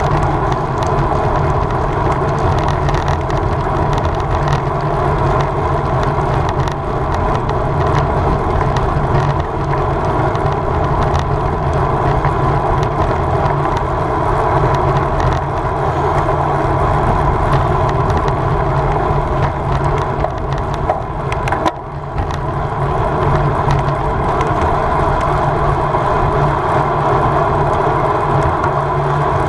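Steady wind rush over the microphone and road-bike tyre hum at racing speed, with a short lull about 21 seconds in.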